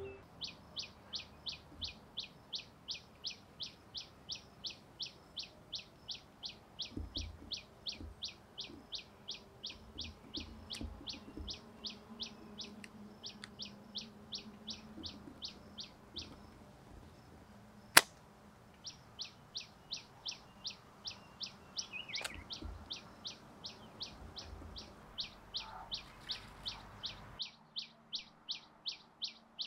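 A bird repeating one short, high chirp over and over at about two to three a second. The chirping stops for a few seconds around the middle, where a single sharp click sounds, then starts again.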